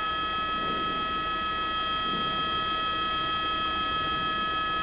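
Helicopter running steadily: a constant high turbine whine at several pitches over the low rumble of the rotor.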